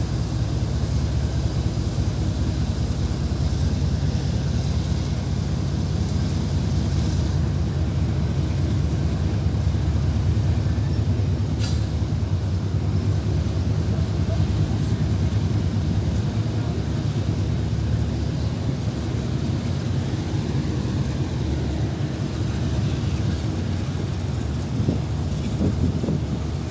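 Cairo–Alexandria passenger train running along the track: a steady low rumble, with a single sharp click about halfway through.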